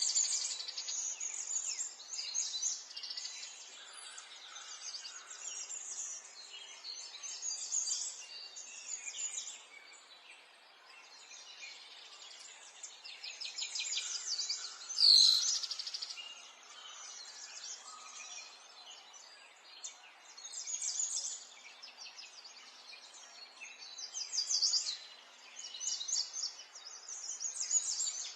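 Many small songbirds chirping and twittering over one another in a dense, continuous chorus of short high notes and trills. One louder, closer chirp stands out about halfway through.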